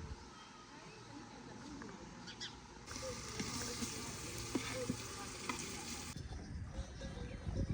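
Food sizzling in hot oil in a pan: a steady frying hiss that starts abruptly a few seconds in and cuts off suddenly about three seconds later.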